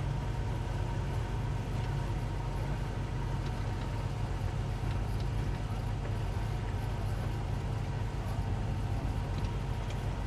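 Twin 200 hp Suzuki outboard motors on a towboat running steadily with a low, even hum, working under the load of a heavy yacht in tow.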